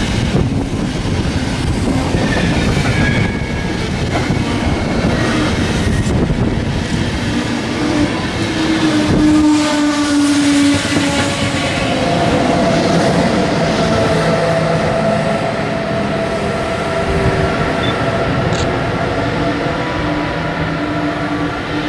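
DB class 101 electric locomotive hauling a EuroCity train passing by: continuous wheel-on-rail rolling noise with rhythmic clatter over rail joints, and several steady whining tones that slowly fall in pitch in the second half.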